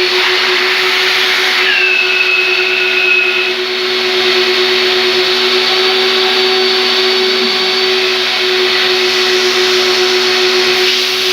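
Three-motor, 4,200 W industrial vacuum cleaner running steadily with a loud, even rush of air and a constant motor hum. A higher whistle joins in for a second or two about two seconds in, then fades.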